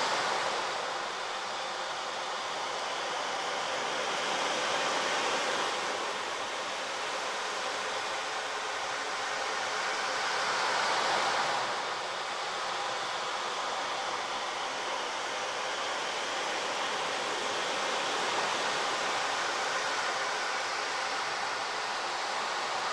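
A steady rushing noise with no clear pitch, swelling and easing every few seconds.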